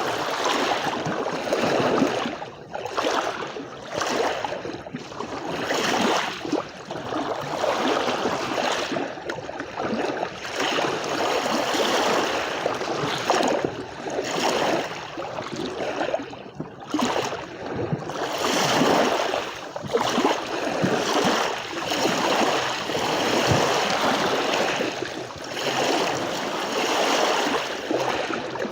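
Sea waves washing onto a shore: a continuous rush of surf whose loudness swells and falls every second or two.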